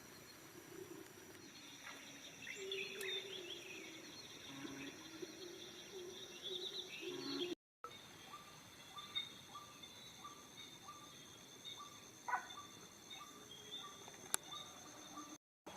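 Outdoor dawn ambience of birds chirping and calling over a steady high drone of insects. In the second half a short call repeats about twice a second. The sound cuts out to silence for a moment about halfway through.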